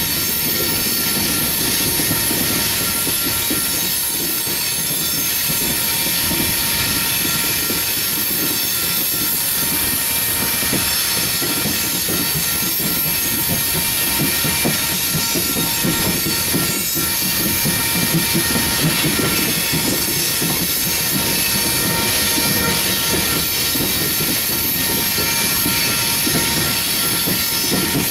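Coal train cars rolling past on the rails, a steady loud rumble with a sustained high-pitched wheel squeal running through it.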